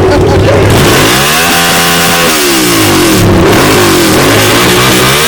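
Engine being revved: the pitch climbs about a second in, holds for about a second, then falls back to idle, followed by a shorter blip and another rise near the end.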